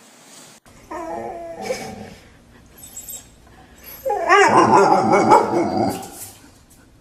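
A dog whining and howling in two stretches: a shorter one about a second in and a longer, louder one from about four seconds in.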